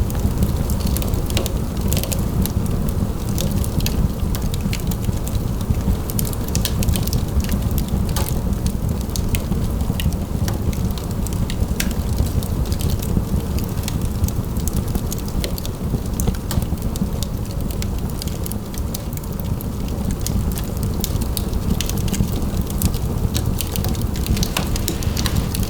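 Wood fire crackling in a fireplace, with many small sharp pops over a steady low rumble.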